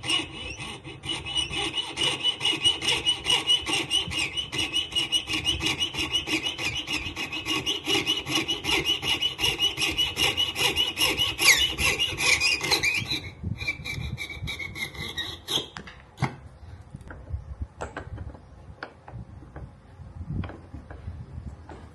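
Rapid back-and-forth rasping strokes, about four a second, as a bone guitar saddle blank is shaped by hand. The strokes stop about two thirds of the way in, followed by a few lighter strokes and scattered small clicks and taps.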